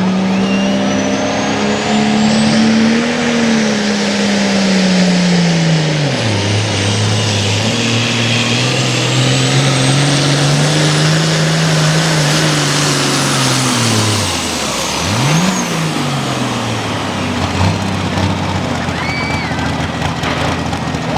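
Hot farm pulling tractor's diesel engine at full throttle pulling the sled; the engine note drops sharply about six seconds in as the load builds, wavers, gives one quick rise and fall in revs about two-thirds through, then runs on lower.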